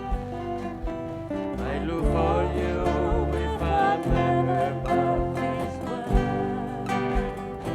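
Live band playing the instrumental ending of a country-folk song: acoustic guitar strumming chords over a steady low beat, with a wavering lead melody line through the middle.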